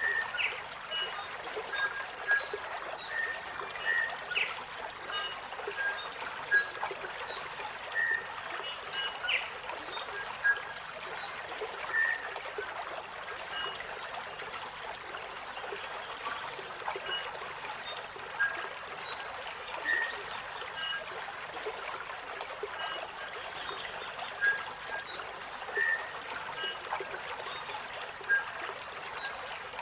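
Running water trickling and burbling steadily, with short bird chirps dotted through it every second or two.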